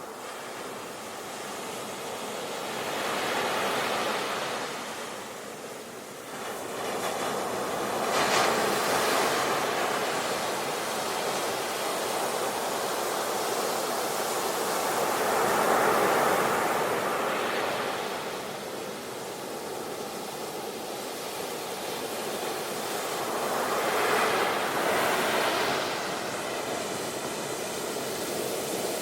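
Sea waves breaking and washing on a beach, the surf swelling and ebbing in slow surges several seconds apart.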